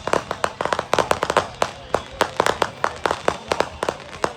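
Fireworks crackling and popping in rapid, irregular cracks, several a second, without a break.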